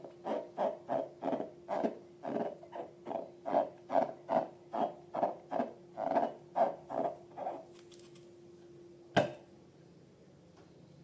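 Slime being squeezed and kneaded by hand: a regular run of wet squelches, about three a second, that stops about three quarters of the way in. A single sharp click follows near the end.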